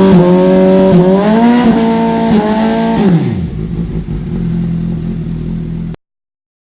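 Inline-four superbike accelerating hard through the gears on a quickshifter: the revs climb and dip briefly at each rapid upshift, several times. A little past three seconds the engine winds down to a lower steady note, and then the sound cuts off suddenly near the end.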